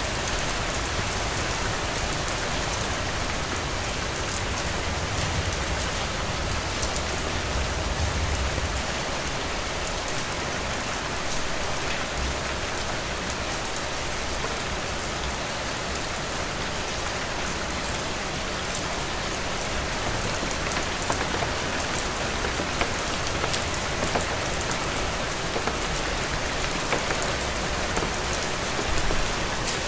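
Heavy rain falling steadily: a dense, even hiss of countless drops, with sharper individual drop ticks scattered through it.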